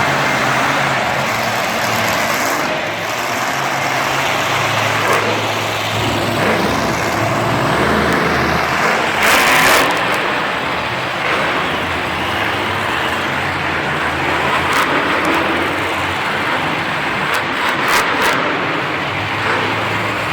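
Monster truck engines, supercharged methanol-burning V8s, running loud in a stadium, with the pitch shifting as they rev, and a brief louder swell about halfway through.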